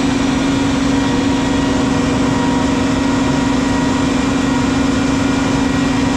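Steady machine noise: a constant low hum over a hiss, unchanging throughout.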